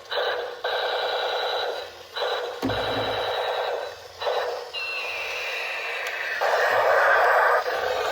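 Electronic tones through a small speaker, in blocks of about a second and a half with short breaks, then a falling tone about five seconds in and a hissier burst near the end.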